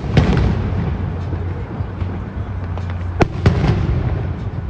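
Aerial fireworks bursting: a sharp bang at the start, then two more bangs close together a little past three seconds in, over a steady low rumble from the display.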